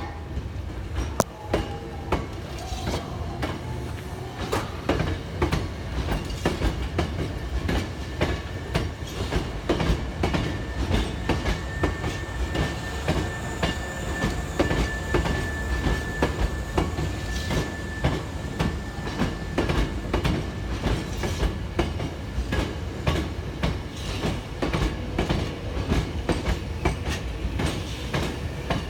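Hankyu seven-car electric train rolling slowly out of the depot through the station yard: a steady low rumble with many irregular clicks of the wheels over rail joints and points. A thin high tone holds for several seconds midway.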